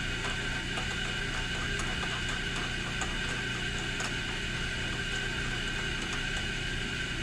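Steady hum of a running workshop machine motor with a constant whine, and faint light clicks of tools being handled.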